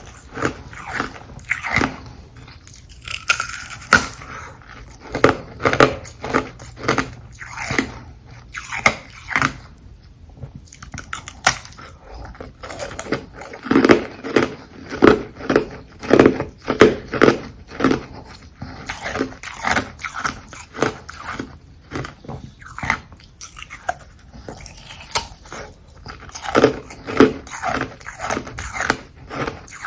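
Carbonated ice (frozen sparkling water) being bitten and chewed close to the microphone: a dense, irregular series of sharp crunches, coming fastest about halfway through.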